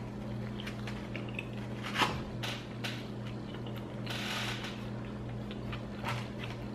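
A person chewing a big mouthful of burger with the mouth close to the microphone: soft scattered clicks and crackles, a sharper one about two seconds in, over a steady low hum.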